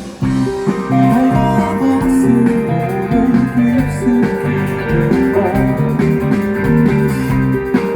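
Live rock band playing an instrumental passage between sung lines, guitars to the fore over bass and drums, recorded on a phone from the crowd. The sound drops for a moment at the very start, then comes back in full.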